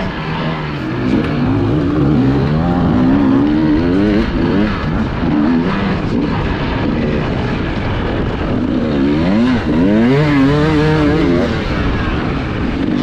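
Hard enduro motorcycle engine heard from onboard, its revs rising and falling constantly as the throttle is worked, with quick blips up and down a little after halfway.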